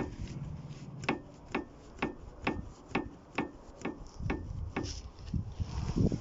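Ford Focus 3 front suspension knocking in an even rhythm, about two sharp knocks a second, fading out near the end. The knock is the fault in the front suspension.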